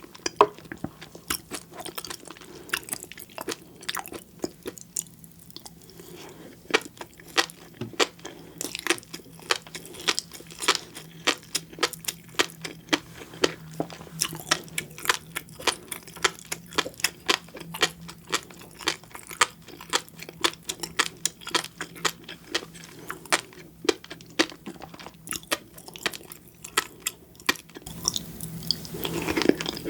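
Close-miked chewing of red shrimp and flying fish roe: wet, sticky mouth sounds with many sharp crackles and pops, several a second, pausing briefly about five seconds in.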